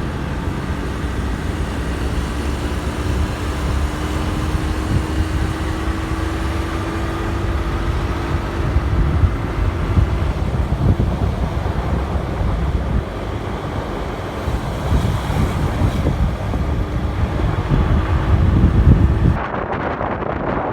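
Motorcycle engine running under way, with heavy wind buffeting on the microphone; the engine tone rises slowly as the bike picks up speed. The sound changes abruptly shortly before the end.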